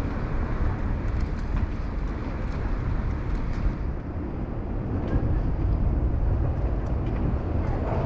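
Steady low rumble of a train running on the railway bridge beside the walkway, with faint clicks over it.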